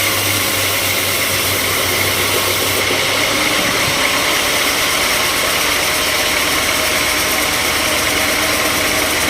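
Sawmill machinery running with a loud, steady mechanical noise. A low hum underneath drops out about four seconds in.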